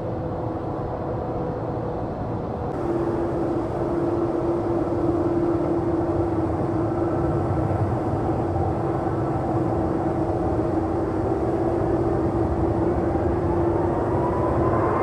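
Jet airliner engine noise: after a change about three seconds in, the Korean Air Airbus A330's turbofans run with a steady rumble and hum, and a whine rises in pitch over the last few seconds as the engines spool up.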